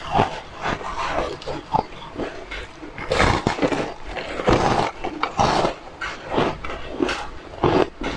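Close-miked biting, crunching and chewing of a brittle, porous food: irregular crackling crunches, loudest in a run of bites from about three to six seconds in.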